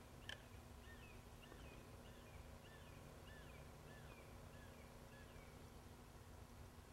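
Near silence with a faint bird calling: a quick series of short chirps that rise and fall in pitch, about two or three a second, lasting several seconds.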